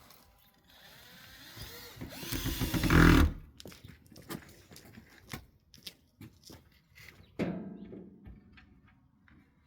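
A power tool runs for about two and a half seconds, growing louder with a wavering pitch before cutting off abruptly. It is followed by scattered knocks and one heavier thud of wood or tools being handled.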